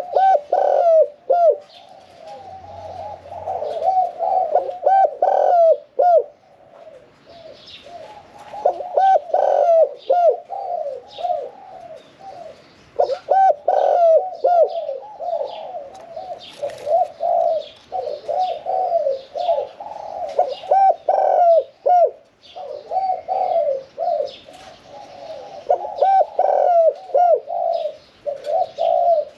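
Spotted dove cooing, phrase after phrase with short pauses between. Small birds chirp faintly in the background.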